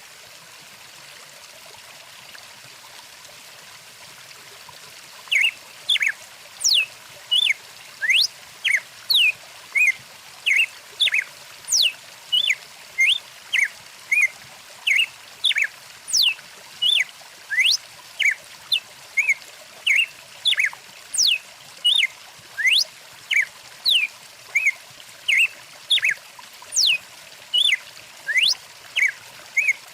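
A stream running steadily, and from about five seconds in a bird calling over and over in short whistled notes that slide up or down, about one and a half notes a second.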